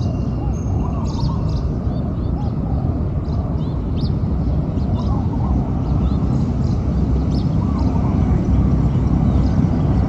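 Small birds chirping in short, sharp, scattered notes over a loud, steady low rumble.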